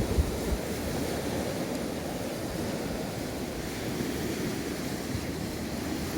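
Steady rush of sea waves washing on the shore, mixed with some wind.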